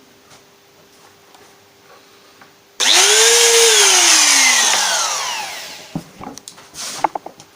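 Wood router started up about three seconds in, then switched off almost at once and spinning down, its pitch falling as it fades over about three seconds. A few knocks and clicks of handling follow near the end.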